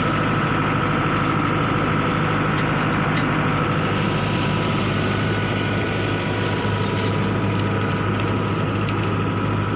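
Vehicle engine idling steadily, a low, even drone.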